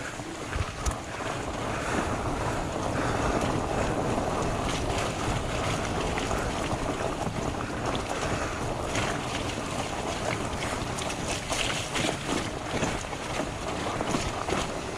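Wind rushing over the microphone while a fat bike rolls downhill on a rough, muddy dirt trail, with the tyres rumbling and occasional short clicks and knocks from the bike.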